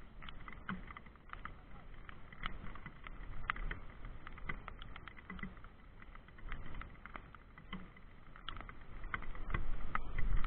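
Irregular light clicks and taps over a low rumble, from a mountain bike ride in the rain, growing louder near the end.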